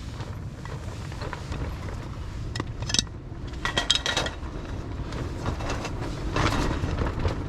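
Strong wind buffeting the microphone as a steady low rumble, with a few sharp clicks and clinks about three, four and six and a half seconds in.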